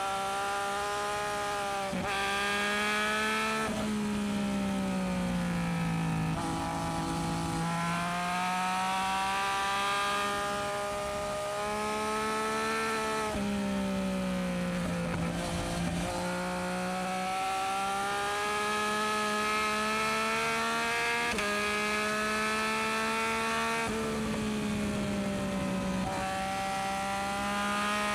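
Yamaha MT-09SP's inline three-cylinder engine through an aftermarket Dominator exhaust, pulling steadily through the gears. Its pitch climbs, then falls as the bike slows, with several sudden steps where gears change.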